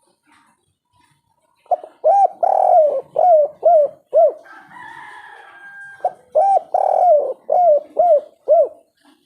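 Spotted dove (tekukur/derkuku) singing its 'kuk 3' cooing song in two phrases, each a run of about six short, arched coos. A fainter drawn-out higher sound falls between the phrases.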